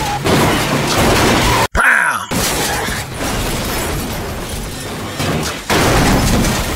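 Car crash on a TV soundtrack: a car rolling over at speed, with crunching metal and shattering glass over loud road and engine noise, and a fresh loud impact near the end.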